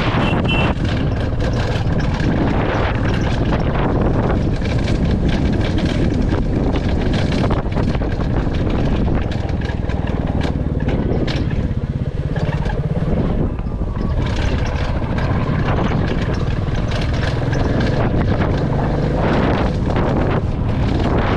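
Royal Enfield Classic 350's single-cylinder engine running steadily as the bike is ridden, with wind buffeting the microphone and frequent short knocks and rattles.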